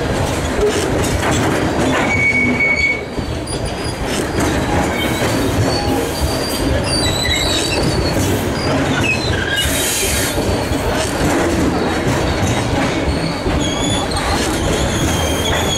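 Covered hopper wagons of a freight train rolling past close by: a steady rumble of steel wheels on rail with repeated clacks. Several brief high-pitched wheel squeals rise above it.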